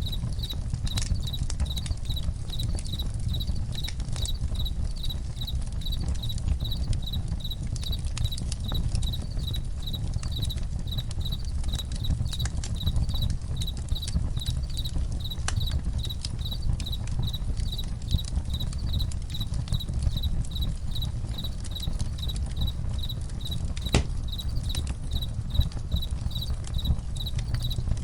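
Crickets chirping in a steady, regular pulse over a crackling campfire, with scattered sharp pops (one louder pop near the end) and a steady low rumble underneath.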